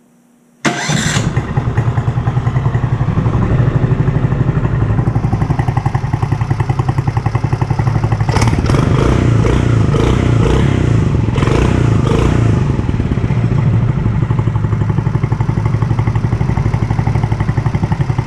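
Mokai's small single-cylinder engine, exhausting through a prototype water-cooled stainless-steel muffler without its outlet baffle, starts up about a second in and runs with a steady fast pulsing exhaust note. It is revved a few times between about 8 and 12 seconds in, then settles back to idle; the owner finds it louder, as he expected.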